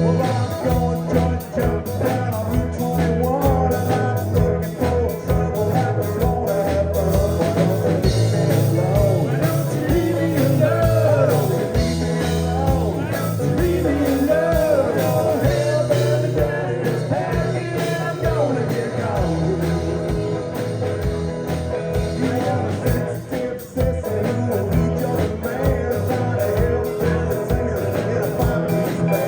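Rock band playing an instrumental stretch: a lead melody with bending, sliding notes over a steady bass and drum beat.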